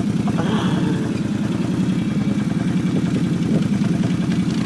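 Arctic Cat engine running steadily at a low, even speed with a fast, regular pulse while towing a lawn tractor.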